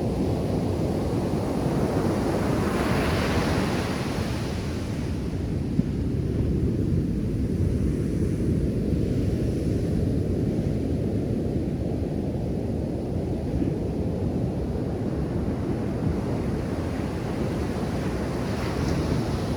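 Ocean surf: a steady low rumble of waves, with the brighter hiss of a wave breaking and washing in about three seconds in and another fainter one near the end. Wind buffets the microphone.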